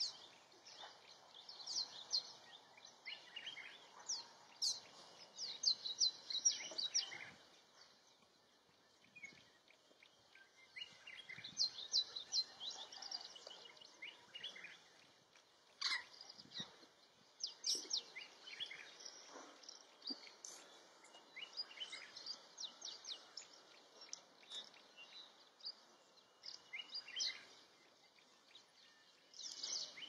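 Birds chirping in runs of quick, short, high notes that come every few seconds, over faint background noise.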